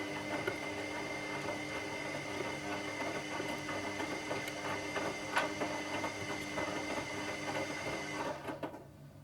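Washing machine motor turning the drum with a steady whine and a clatter of clicks and rattles, cutting out about eight and a half seconds in.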